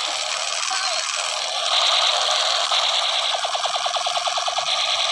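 Electronic toy gun sound effects: a steady high electronic tone begins about a third of the way in, joined in the second half by a fast rattle of pulses, about ten a second.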